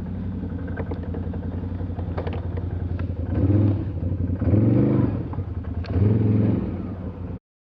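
Small off-road vehicle engine running steadily, revved three times with brief rising swells, with a few light clattering knocks. The sound cuts off abruptly near the end.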